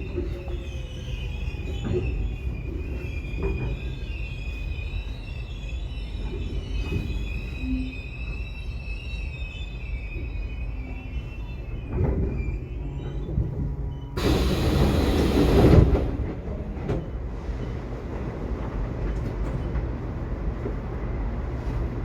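Subway train running with a steady low rumble, its wheels squealing high for the first half before the squeal fades out. About fourteen seconds in, a loud rush of noise lasts a second and a half, then the rumble settles back.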